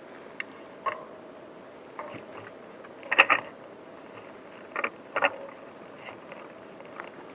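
Footsteps through forest undergrowth: irregular crunches and snaps of dry twigs and litter underfoot, loudest in a quick cluster a few seconds in and a pair near the middle, over a steady low hiss.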